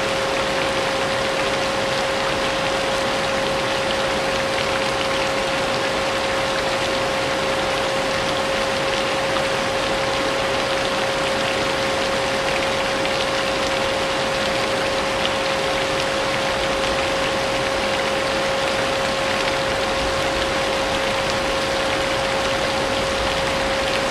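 Vacuum cleaner running steadily with a constant hum, mixed with steady rain.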